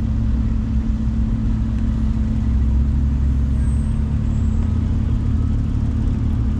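Car engine idling, a steady low rumble with a constant hum.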